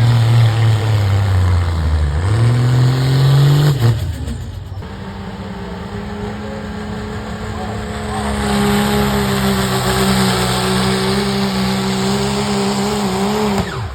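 Diesel pickup's engine running hard under load as it pulls. Its note sags about two seconds in and climbs back. About four seconds in the sound changes to a steady, higher engine note that cuts off near the end.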